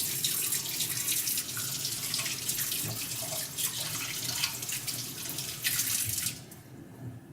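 Water running from a tap as a knife is washed clean of sharpening oil, cutting off about six seconds in.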